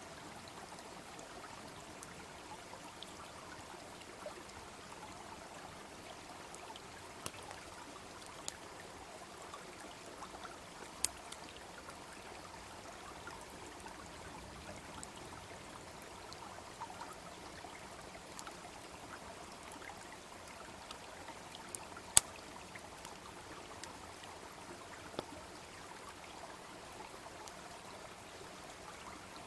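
Wood bonfire crackling with scattered sharp pops, one much louder about two-thirds of the way through, over the steady babble of a small brook.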